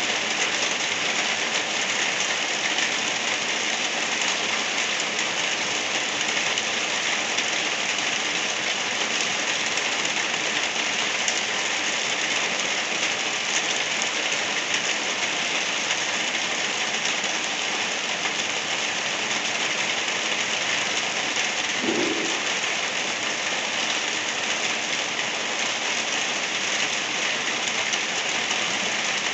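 Gentle rain falling steadily, an even hiss of drops on surfaces that does not change.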